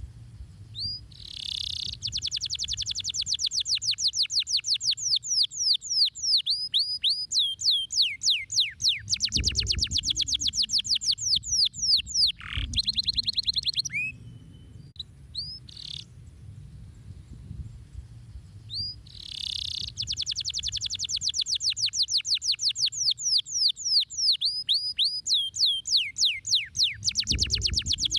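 Domestic canary singing: two long song phrases of very fast, evenly repeated trilled notes, with a short break in the middle of the stretch. A low hum runs underneath.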